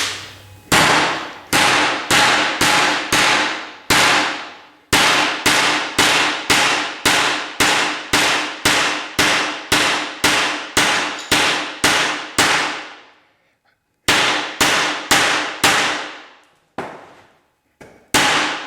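Steady hammer blows, about two a second, on the butt of a cheap out-the-front automatic knife, driving its blade into wood. Each strike rings briefly. The blows stop for about a second and a half, then a few more come, slower. This is a test of whether the knife's blade lock holds under impact.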